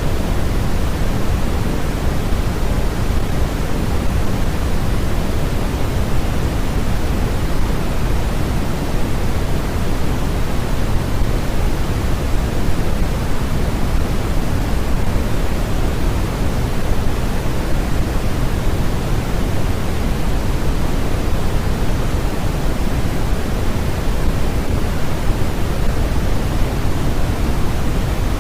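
Steady synthetic noise of the kind sold as white noise for sleep. It is an even, unbroken hiss that is heavier in the low end and thinner toward the top, more like pink noise, and it does not change.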